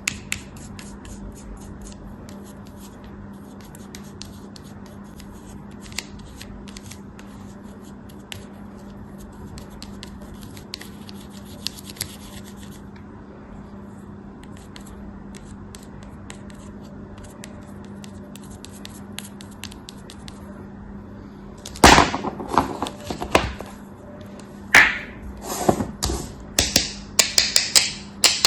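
Faint, fine crackling and scratching over a low steady hum. About 22 seconds in it gives way to a run of loud crunchy cuts and scrapes, coming faster toward the end.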